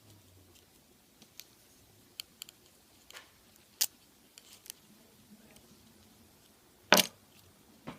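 Scattered small clicks and scratches of a sharp tool and fingers working on the plastic parts of an opened Apple TV remote, with one louder sharp click about seven seconds in.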